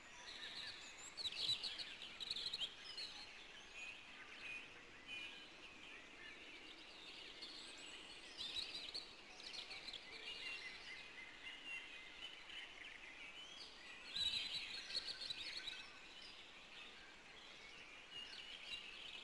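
Faint forest birdsong: many short chirps and twitters from small birds, coming in irregular bursts, livelier about two seconds in and again near fourteen seconds in.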